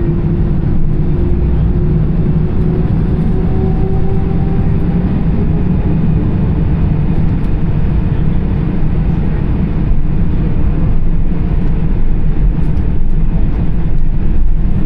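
Airbus A320-214's CFM56 engines and wheels heard from the cabin while taxiing: a loud, steady low rumble, with a faint engine tone that rises slightly during the first half.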